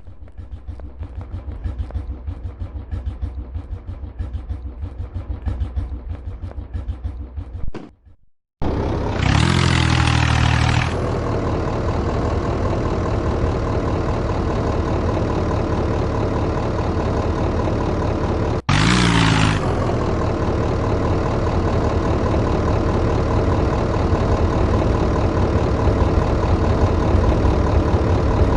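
Modified tractor engine running with a low pulsing beat, cutting out briefly about eight seconds in, then running louder and steady, with two short loud surges about nine and nineteen seconds in.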